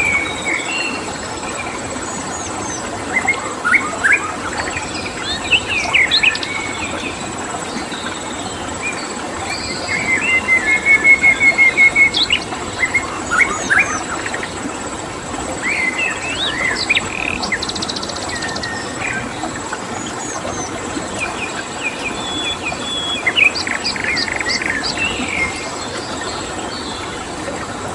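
Several wild birds chirping and singing over a steady hiss of running water, with a rapid trill of repeated notes about ten seconds in and a thin, steady high insect tone throughout.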